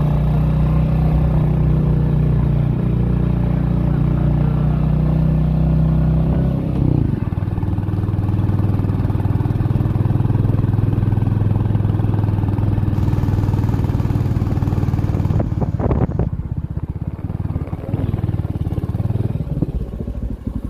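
Motorcycle engine running steadily. Its note drops about a third of the way in, and near the end it settles into a slower, evenly pulsing beat.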